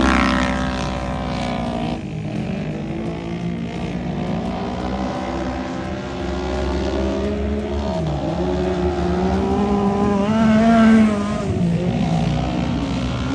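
Small dirt-track race car engines (micro sprints) running at speed. Their pitch rises and falls as they lift and accelerate, with the loudest rise about ten seconds in.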